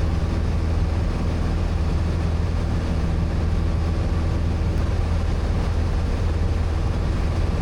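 Piston light airplane's engine and propeller droning steadily in cruise, heard inside the cockpit.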